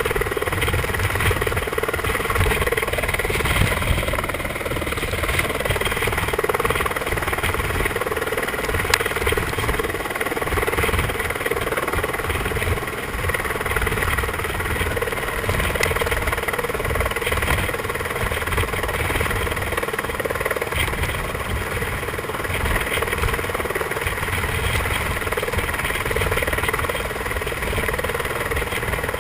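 Helicopter hovering, its turbine and rotor running steadily.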